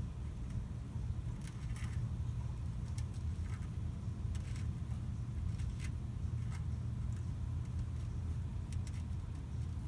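Steady low rumble with scattered light clicks and rattles, like tools or parts being handled.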